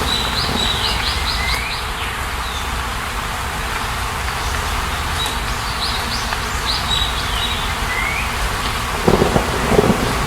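A steady, even hiss of water noise with birdsong over it: a bird gives two bouts of quick, high repeated chirps, each ending in a short rising whistle. A few low thumps come near the end.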